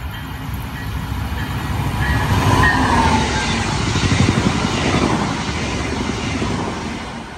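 Brightline passenger train passing at speed: wheels on the rails make a rushing rumble that builds to a peak about halfway through, then fades near the end.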